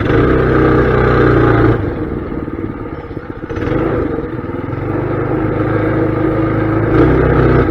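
Mini bike's small engine running under throttle, easing off about two seconds in and picking back up from about three and a half seconds.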